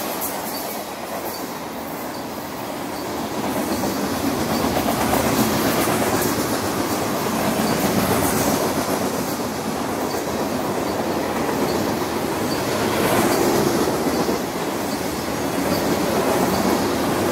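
Covered hopper cars of a freight train rolling past: a steady rumble and clatter of steel wheels on rail, swelling and easing in loudness as the cars go by.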